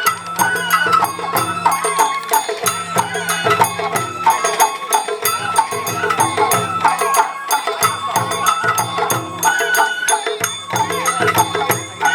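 Sawara bayashi festival music: a bamboo flute melody over taiko drums and a small clanging hand gong, played in a steady rhythm.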